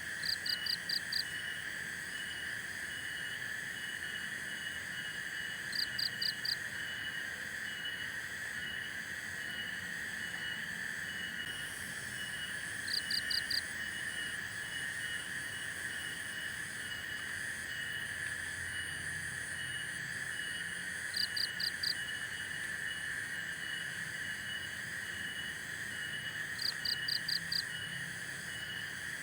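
Forest chorus of insects: a steady drone with a faster pulsing chirp above it. Every six or seven seconds an animal call cuts in, a quick run of four or five sharp notes, the loudest sound.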